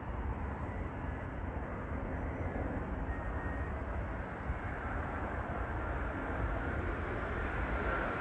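Airbus A350 airliner's jet engines on approach: a steady rumbling roar that grows a little louder, with a faint high whine showing near the end.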